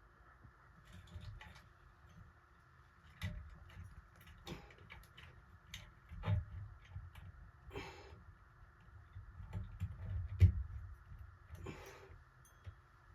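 Irregular small clicks, taps and brief rustles of hand work on a ceiling fan's switch housing and wiring, with small parts and tools being handled; the loudest knock comes about ten seconds in.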